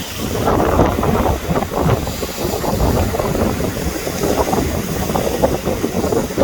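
Wind buffeting the microphone over the wash of breaking sea waves, a loud, gusty rumble.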